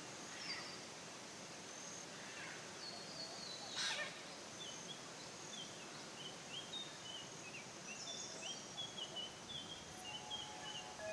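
Forest ambience: a steady hiss of background noise with songbirds chirping, one louder sharp call about four seconds in, and a run of short repeated chirps in the second half. A steady ringing tone comes in near the end.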